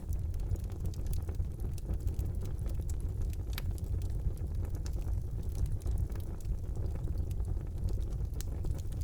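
Wood fire burning in a fireplace: a steady low rumble of flames with scattered crackles and pops, one sharper pop about three and a half seconds in.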